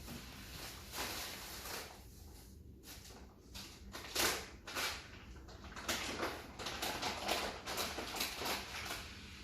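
Lovebirds in their cage making a run of short, scratchy rustles and clicks as they move about and feed, with no clear chirps.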